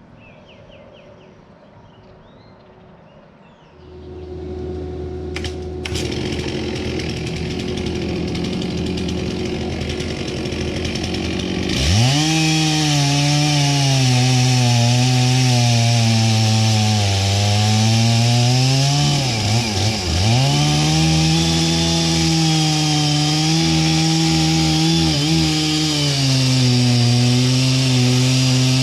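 A few faint bird chirps, then an engine starts running steadily about four seconds in. About twelve seconds in, a Stihl MS660 chainsaw is run at full throttle and cuts wood, its pitch wavering and dropping sharply once, near the middle, as it bogs in the cut before picking back up.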